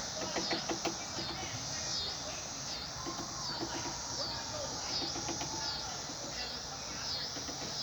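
Woodpecker pecking at wooden deck boards: short runs of sharp taps near the start and again around the middle. Over it, an insect call pulses steadily about every 0.7 seconds.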